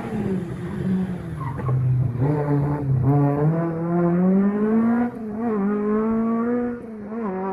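Ford Escort Mk1 rally car's engine pulling hard. The revs dip about two seconds in, then climb steadily through a gear to a sharp drop at the upshift about five seconds in. They climb again and fall away near the end.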